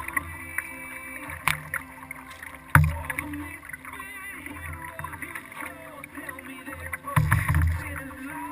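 Kayak paddling picked up by a camera mounted on the hull: water noise with knocks on the boat, a sharp one about three seconds in and a louder run of thumps near the end.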